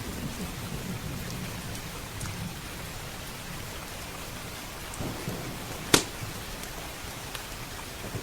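Steady heavy rain with a low rumble of thunder dying away over the first couple of seconds. Scattered small crackles from a wood fire, and one sharp loud pop about six seconds in.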